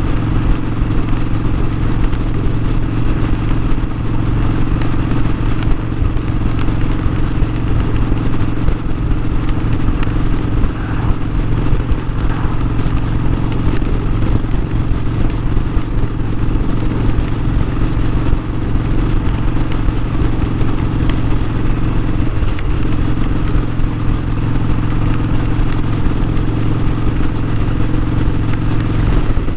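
Harley-Davidson Sportster 1200's air-cooled V-twin engine running at a steady speed while the motorcycle is ridden.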